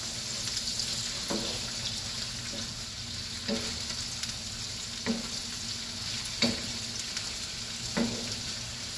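Chicken breast pieces sizzling in oil in a nonstick frying pan, stirred with a wooden spatula. The spatula knocks against the pan six times, roughly every second and a half, over a steady sizzle.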